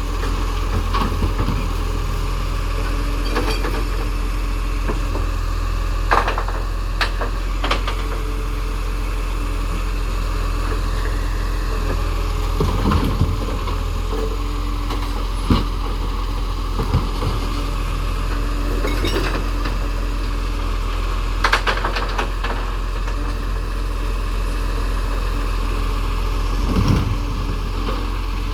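Recycling truck's diesel engine running steadily, with occasional short clanks and clatters of metal and rattling recyclables.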